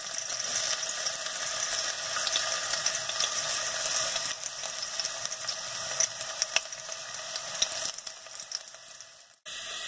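Chopped ginger, garlic and green chilli sizzling in a little hot oil in a steel kadai, a steady hiss with scattered sharp crackles. The sound drops out suddenly near the end.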